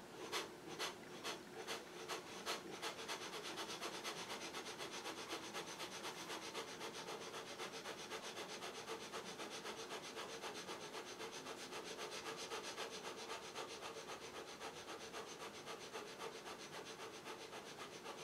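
Kapalbhati breathing: short, forceful exhalations through the nose in a steady rhythm, about two a second at first, quickening to about four or five a second after a few seconds.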